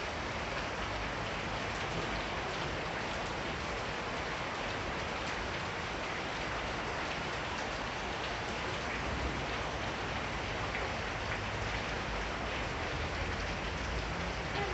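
Heavy rain falling steadily: a dense, even hiss with the patter of individual drops striking surfaces.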